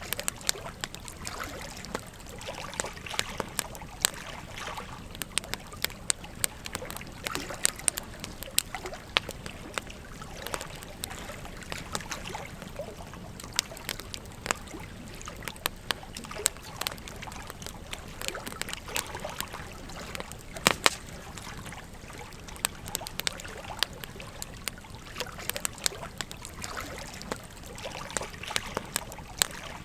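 Wood campfire crackling with frequent sharp, irregular pops over a gentle stream trickling steadily. One louder pop about twenty seconds in.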